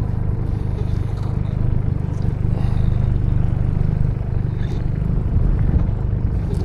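Small boat's new Tohatsu outboard motor running steadily at low trolling speed while it is being broken in below 2,000 RPM, a continuous low hum.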